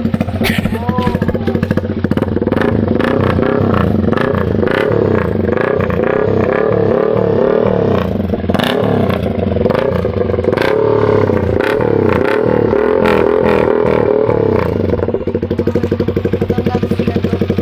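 Yamaha R15M V4's single-cylinder engine running through a loud aftermarket exhaust: idling steadily, then revved again and again with the engine speed rising and falling for most of the time, settling back to idle near the end.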